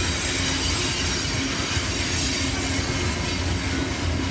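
Freight train of autorack cars rolling past: a steady rumble of steel wheels on the rails, with a faint high wheel squeal running over it.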